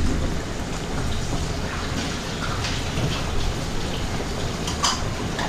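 Chopped onion, garlic, anchovies and capers sizzling in oil in a frying pan: a steady crackling hiss, with a brief sharper pop near the end.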